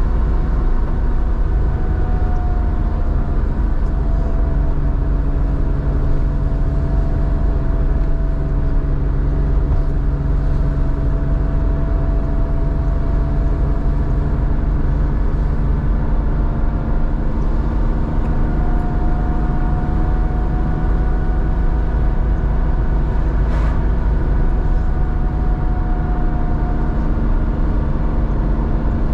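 1987 Porsche 911's air-cooled 3.4-litre flat-six running through a Scart two-in-one-out muffler at a steady, even engine speed, a constant drone with little change in pitch.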